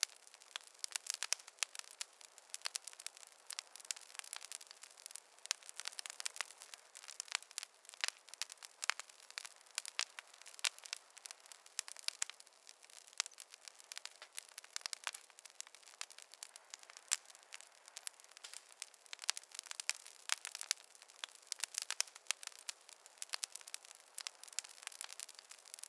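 Campfire crackling: a steady stream of irregular small pops and snaps, with no low rumble under them.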